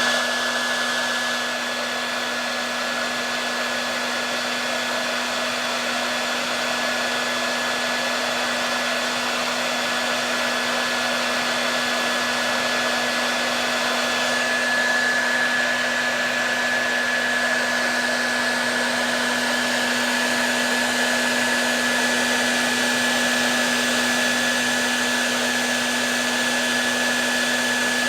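Hair dryer running steadily: a constant rush of blowing air with a low hum and a thin, high whine held on one pitch.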